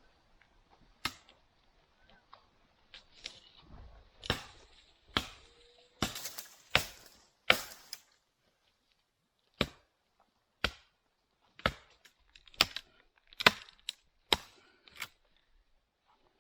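Wood being chopped with a blade: about a dozen sharp, separate strikes, coming roughly once a second in the second half.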